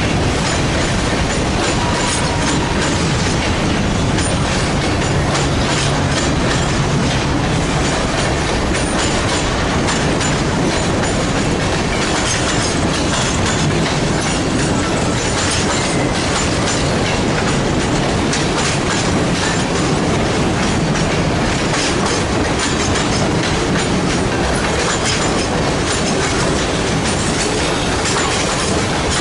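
Freight train cars rolling past, their wheels clicking over the rail joints in a steady, continuous clatter.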